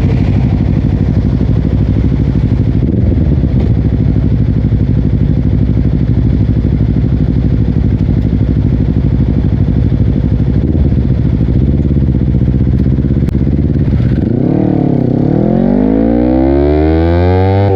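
Honda CBR250RR parallel-twin engine running through a Yoshimura exhaust at a steady cruise. About 14 seconds in, the revs dip briefly, then climb steadily as the bike accelerates.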